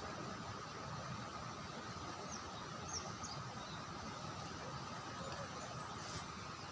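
Outdoor ambience: a steady even hiss with a faint steady tone and a few short, faint bird chirps.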